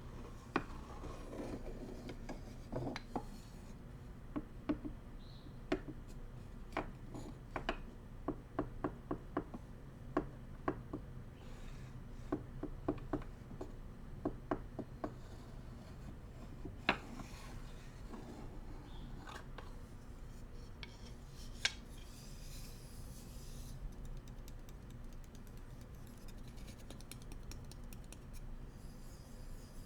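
Bamboo cooking utensils handled for ASMR: a series of sharp wooden taps and clicks, some in quick runs, through the first half or so, then mostly soft rubbing and scraping with one more sharp click.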